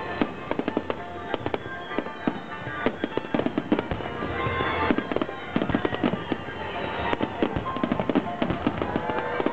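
Aerial fireworks crackling and popping in a dense, rapid run of many small bursts, with music playing underneath.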